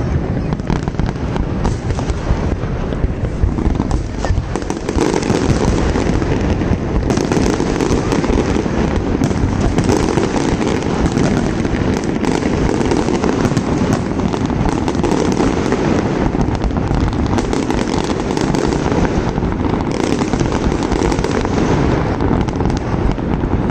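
Fireworks display: a dense, continuous barrage of overlapping bangs and crackles that grows fuller and louder about five seconds in.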